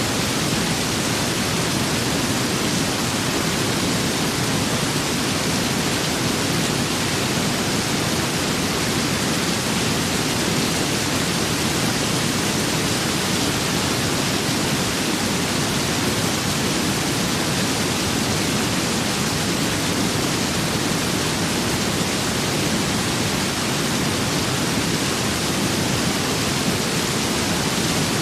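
Steady rain and wind: an even, unbroken hiss with no distinct drops, gusts or thunder.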